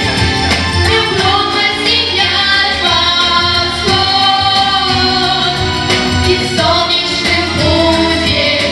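A vocal group singing together over instrumental accompaniment, with long held notes.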